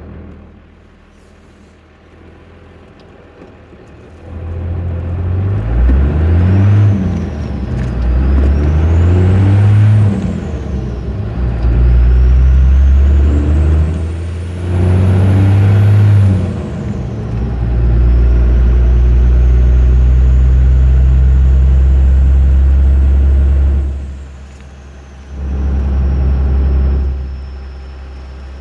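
Cummins 12-valve inline-six diesel with a 4-inch straight-piped exhaust, idling at first, then pulling through the gears: the engine note rises and drops several times, each pull with a high turbo whistle from the HX35 turbocharger rising and falling with it. It settles into a steady cruise, then eases off and pulls briefly once more near the end.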